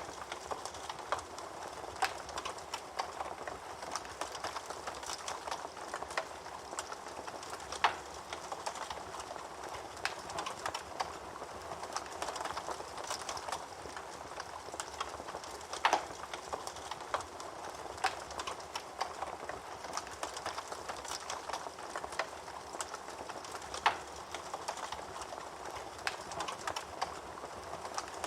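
Wood fire crackling in a fireplace: a steady hiss of burning with frequent small crackles and a louder pop about every eight seconds.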